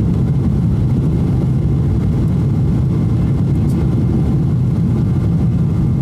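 Steady low rumble of a Boeing 777-200's engines and airflow, heard from inside the passenger cabin.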